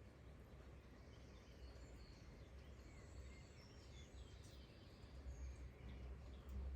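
Very faint outdoor ambience: a steady low rumble with a soft hiss, and a few faint high bird chirps in the middle.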